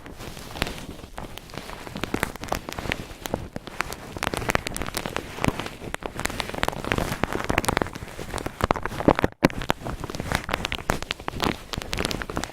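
Cotton ball rubbed and squeezed up close to the microphone: a dense, scratchy crackling rustle, cut off for a moment about nine seconds in.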